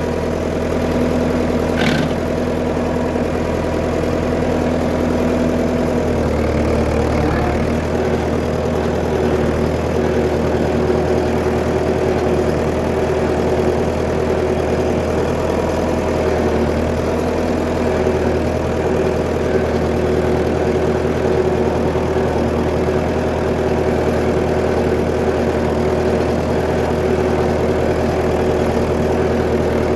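1959 Fordson Power Major tractor's four-cylinder engine running steadily, its note shifting about six seconds in and then holding.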